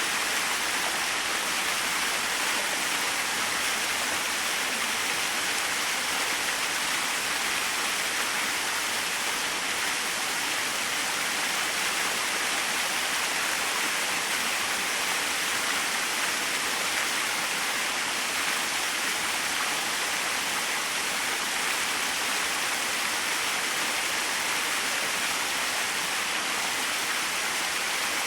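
Small waterfall splashing in a steady, even rush of falling water, with no other sounds standing out.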